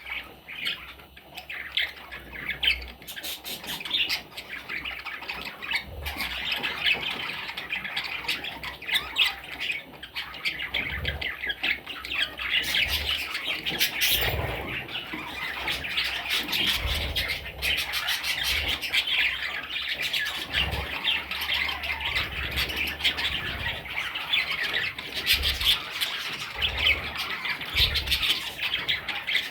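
Budgerigar chicks calling continuously, a dense chatter of many overlapping short squawks.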